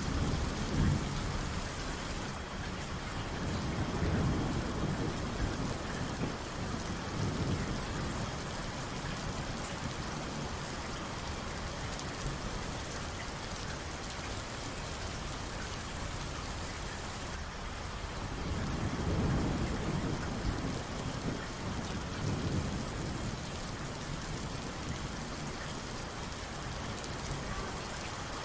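Steady heavy rain with distant thunder rumbling low underneath, swelling a few times, most strongly about four seconds in and again around twenty seconds in.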